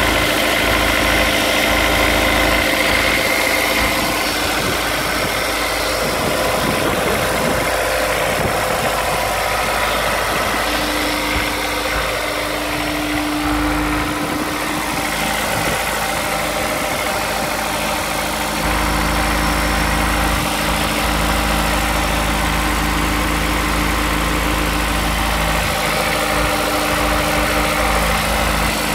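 Honda S2000's four-cylinder engine idling steadily on a cold start; the owner suspects rod knock.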